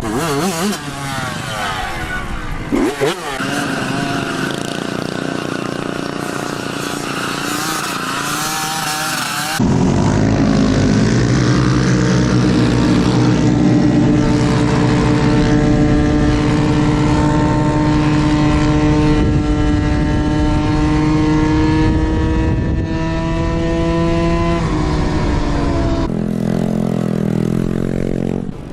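Small motorbike engines running and revving. About a third of the way in, a louder engine cuts in, its pitch climbing slowly and steadily for about fifteen seconds as the bike accelerates. Near the end the sound changes abruptly to another engine.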